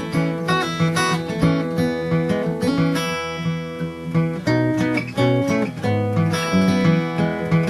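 Acoustic guitar in open D tuning played fingerstyle: plucked chord and melody notes over a steady, repeating low D bass drone.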